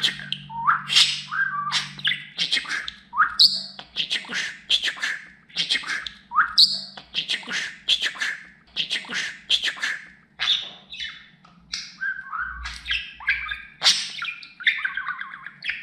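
Budgerigar warbling and chattering: a fast, unbroken run of chirps, clicks and short squawks with no clear words.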